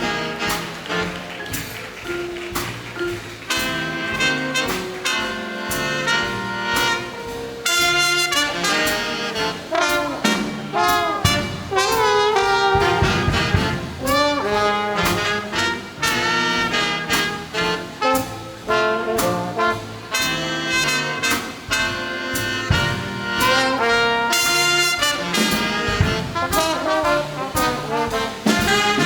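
A big band playing jazz: a brass section of trumpets and trombones sounding full ensemble chords, with sharp percussive strokes keeping the beat.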